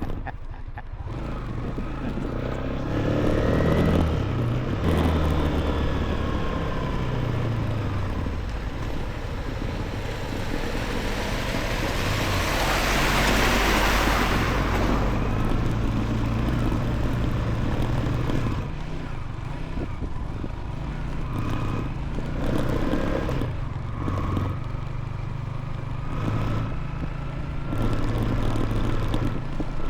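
Motorcycle engine running while riding, its note rising and falling with the throttle, with a rush of wind and road noise that swells loudest around the middle.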